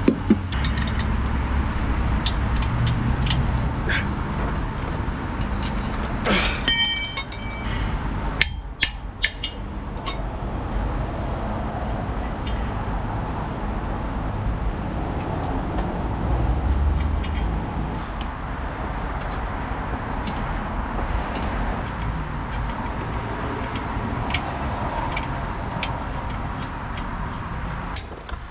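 Scattered metal clinks and taps of hand tools over a steady low rumble, with a brief ringing metallic scrape about seven seconds in.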